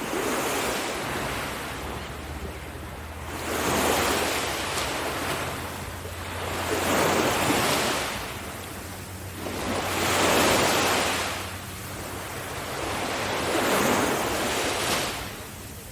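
Sea surf on a beach: waves break and wash in over and over, the rush swelling and falling away about every three to four seconds, with a faint steady low hum underneath.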